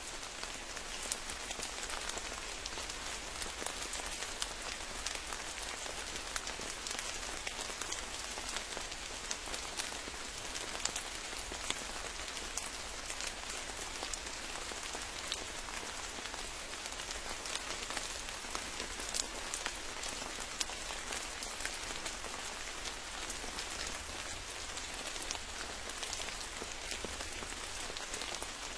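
Steady rain falling, with many sharp single drop hits standing out from the constant hiss.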